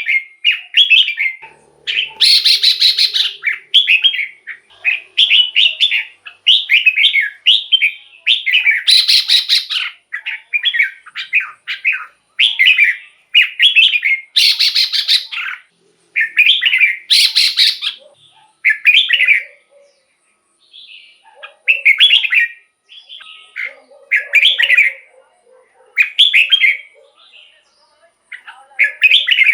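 Red-whiskered bulbul singing in short, quick warbling phrases with brief pauses between them, a few of them louder and harsher. The phrases come more sparsely near the end.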